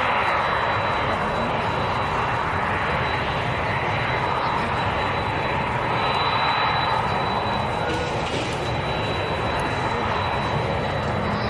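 Aircraft engine noise, loud and steady, with a thin high whine above it.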